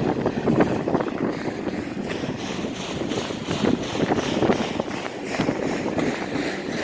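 CSX freight train rolling past, its wheels clicking and knocking over the rail joints, with wind on the microphone.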